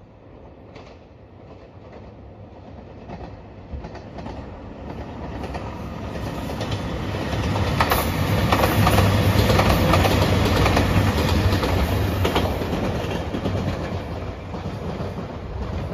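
A JR Shikoku 2700 series diesel express train, in red Anpanman livery, passes by. It grows louder to a peak around the middle, with the wheels clattering over the rail joints, then fades as it draws away.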